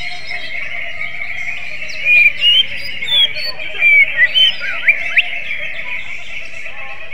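Cucak ijo (greater green leafbird) singing, its song resembling an oriental magpie-robin's, over a steady dense chatter of bird notes. A run of louder whistled notes comes from about two to five seconds in, ending in quick rising whistles.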